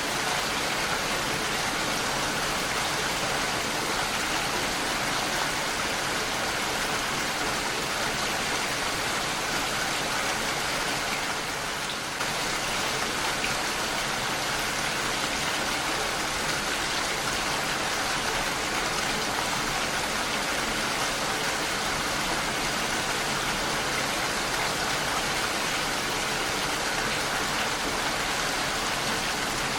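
Heavy rain falling steadily on a window pane, an even hiss of drops with a brief slight dip about twelve seconds in.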